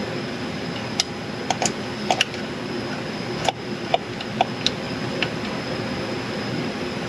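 Irregular sharp metallic clicks and taps from hand tools on the cylinder-head bolts of a Rover 3.5 V8 as the bolts are run down by hand before torquing. A steady hum runs underneath.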